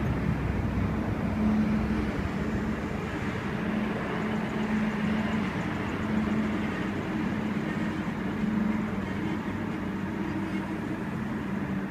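Hunter-class diesel railcar set at the platform, running with a steady engine hum over a noisy rumble that eases slightly.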